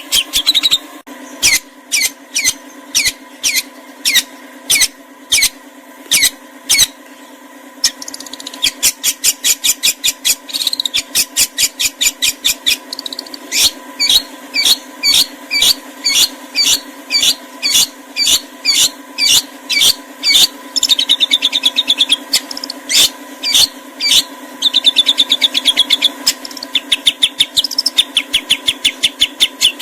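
Songbird calling: a long series of sharp, high, repeated notes, about two a second, breaking into faster trills twice, over a steady low hum.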